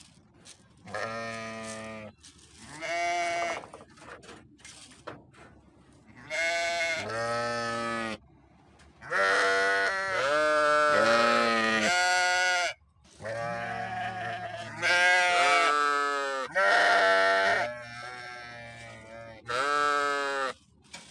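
Sheep bleating: a series of about eight wavering calls, each lasting from under a second to several seconds, with short pauses between them.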